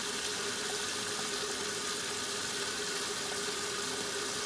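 1969 Westinghouse washing machine agitating: a steady motor hum under the churn and splash of water thrown around by its ramp-action agitator.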